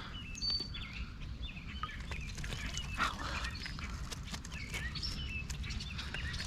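Birds calling with short high chirps over a steady low rush of stream water, with a brief knock about three seconds in.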